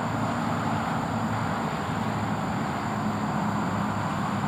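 Steady low engine hum under a continuous hiss, the sound of a vehicle running.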